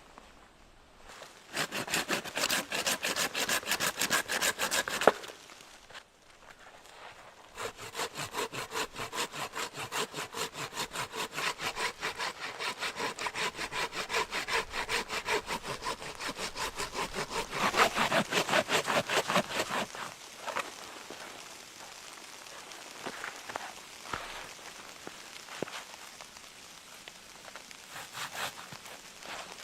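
Hand saw cutting through wood in quick, even back-and-forth strokes. It runs in two spells with a short pause about six seconds in, then gives way to quieter scattered knocks and scraping after about twenty seconds.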